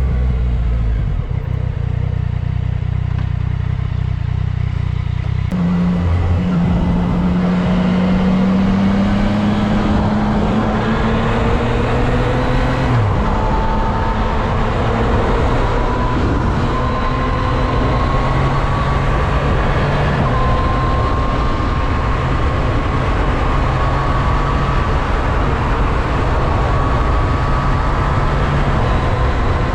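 Yamaha MT-09 SP motorcycle's three-cylinder engine running low and steady, then about five seconds in pulling away with its pitch rising steadily until a gear change drops it about halfway through. After that it runs on at speed with the pitch slowly climbing, over steady wind and road noise on the GoPro's built-in microphone, which has a foam windscreen fitted.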